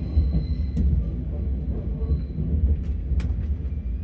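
Cabin noise of an Omnéo Premium double-deck electric train: a steady low rumble, with a few sharp clicks.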